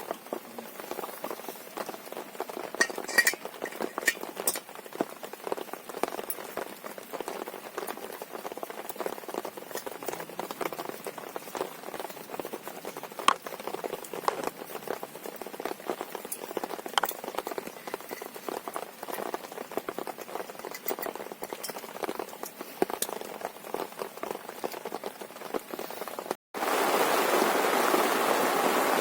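Rain pattering in irregular crackly drops. After an abrupt cut near the end, it becomes a louder, steady hiss of heavy rain.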